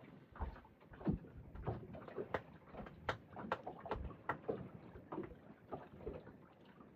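Water slapping against the hull of a small boat: a steady run of irregular short knocks and splashes, two or three a second.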